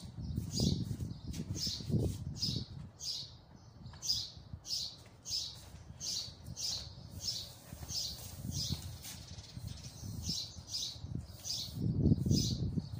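A small bird chirping over and over, about two short high chirps a second. Near the end there is the low rustle and knock of a broom and plastic dustpan sweeping dust off a tiled floor.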